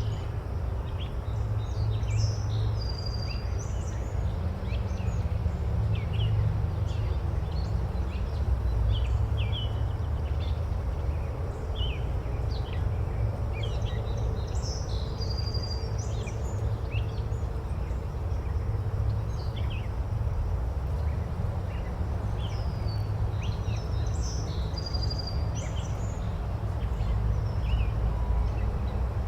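Forest ambience: many small birds chirping and whistling over a steady low rumbling background, with a similar burst of bird calls recurring three times.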